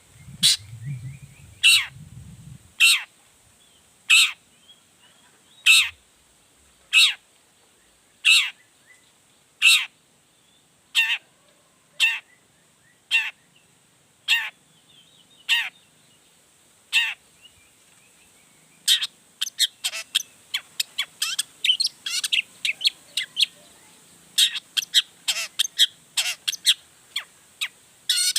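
Long-tailed shrike (cendet) giving harsh, downward-sweeping calls, one about every second and a quarter, then breaking into a faster, denser run of calls about two-thirds of the way through.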